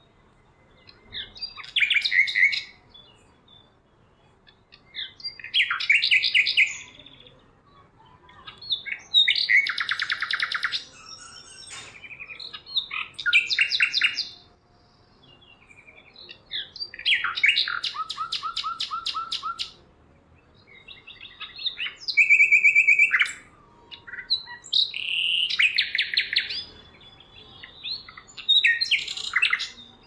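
A bird calling in repeated bouts about every three seconds. Each bout is one to three seconds of rapid chattering or trilling notes.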